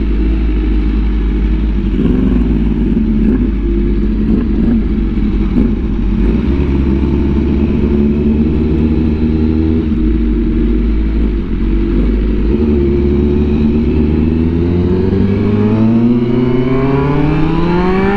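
Honda Fireblade RR-R SP's inline-four with an SC Project titanium exhaust, heard from the rider's seat, running at steady cruising revs with small throttle changes. Over the last few seconds it revs up steadily under hard acceleration, and is cut by a quick-shifter upshift at the very end.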